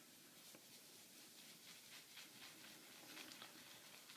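Faint, soft scratchy patter of a badger shaving brush swirled lightly over a hard shave soap puck as the brush is loaded with soap.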